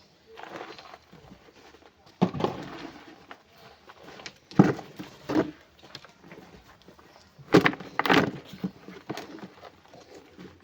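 A series of irregular knocks and thuds, about six of them, each sharp and short, spaced a second or two apart over a low background.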